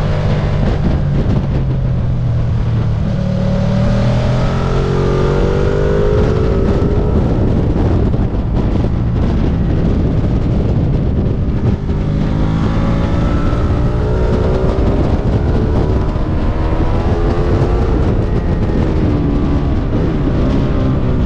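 Stock Ducati sport bike's engine running hard on track, its pitch rising and falling in a few sweeps as the bike accelerates and eases off, under heavy wind noise on the onboard microphone.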